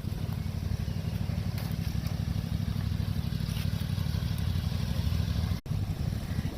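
Engine of a Toro zero-turn mower running steadily with a fast low throb, briefly cutting out about five and a half seconds in.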